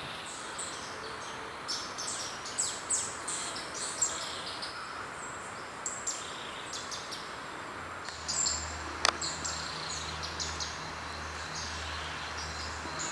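Several birds calling with many short, sharp chirps and whistles over a steady background hiss. From about eight seconds in a low hum joins, and a single sharp click comes just after.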